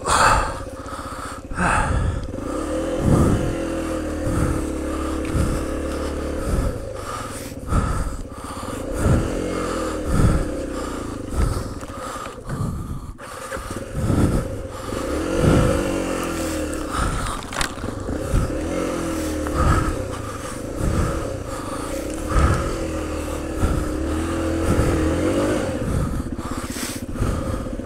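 Yamaha trail bike's single-cylinder four-stroke engine revving up and down over and over as it is ridden slowly through undergrowth, with brush scraping past and frequent dull knocks from the rough ground.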